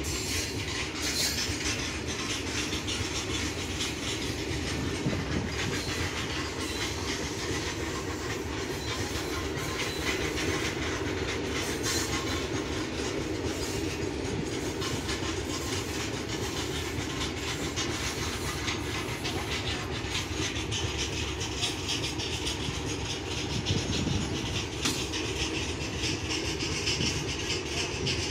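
Freight train rolling along the adjacent track, its wagon wheels clattering steadily over the rails.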